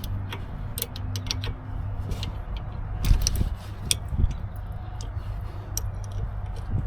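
Scattered light clicks and metal clinks of a wrench and tools at a brake caliper's bleeder screw during brake bleeding, over a steady low hum.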